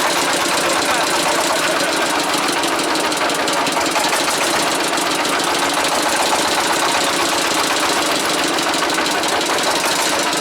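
Small boat's engine running steadily, with a fast knocking beat.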